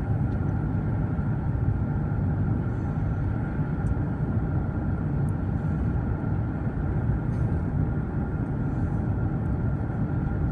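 Steady low road and engine noise inside a moving car's cabin, with no sudden events.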